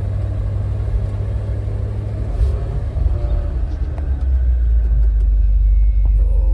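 Low, steady rumble of an F truck running slowly along a rough bush track, with a few light knocks about two to four seconds in.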